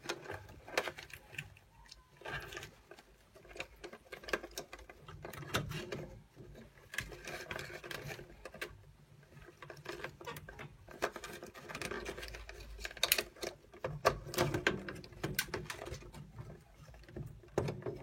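Irregular clicks, taps and rattles of hands and tools working on parts inside an open gas combi boiler, as wiring plugs and fittings are put back.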